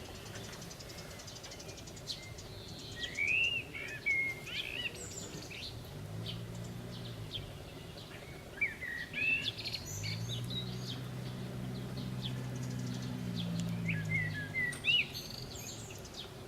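Small birds calling in three short bouts of quick, curving chirps. A low engine hum rises and fades in the background twice.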